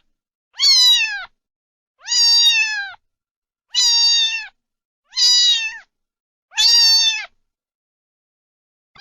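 A cat meowing over and over: about six high meows evenly spaced roughly a second and a half apart, each dropping in pitch at its end, stopping a little after seven seconds in.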